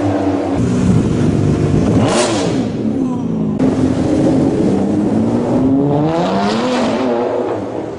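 A supercar's engine revving and accelerating hard, its pitch climbing and falling several times. There are abrupt jumps in the sound, as if short clips were cut together.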